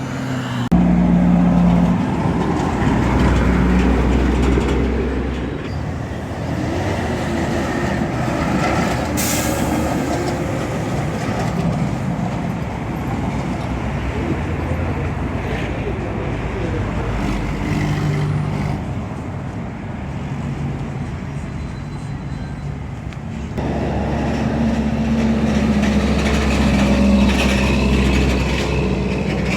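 Heavy truck engines running, a steady low hum that eases off through the middle and swells again near the end, with a short sharp hiss about nine seconds in.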